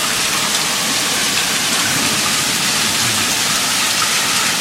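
Heavy rain pouring down steadily, a dense even hiss, as a hailstorm turns to rain.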